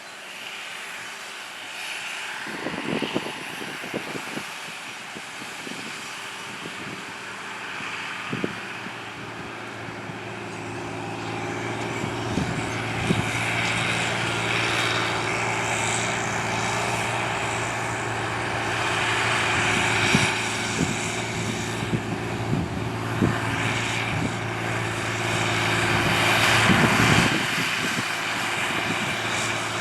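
John Deere 8300 tractor's six-cylinder diesel engine running steadily under load while cultivating, growing louder over the first half as it comes closer. A few short thumps break in now and then.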